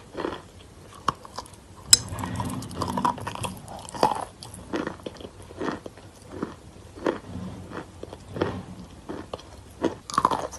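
A person biting and chewing chalk close to the microphone. There is a sharp snap about two seconds in, then steady crunching chews, about one and a half a second.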